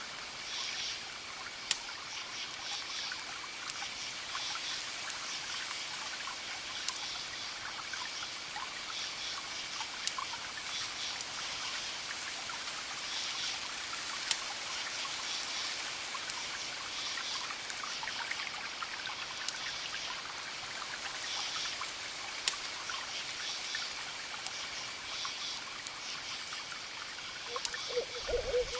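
Campfire crackling with occasional sharp pops, and crickets chirping in repeated pulsed trills, over a steady wash of distant ocean waves. An owl starts hooting near the end.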